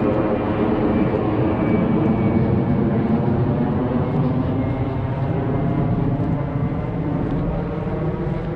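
A steady engine drone made of many evenly spaced tones, a little louder in the first half and easing off toward the end, like an aircraft passing overhead.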